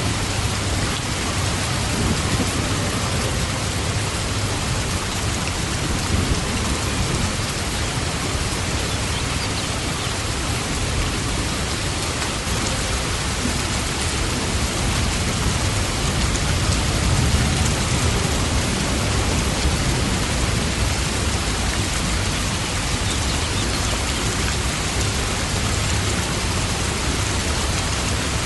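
Steady, even rainfall, with low rumbles of distant thunder swelling now and then.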